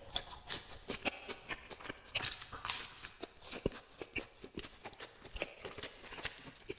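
Close-miked chewing of a mouthful of fried patty: irregular crunching and wet mouth clicks, several times a second.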